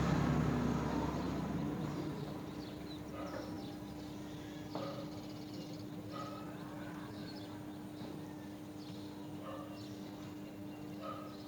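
Scattered short bird chirps, a few at a time, over a steady low hum, after a louder rushing noise fades out in the first two seconds.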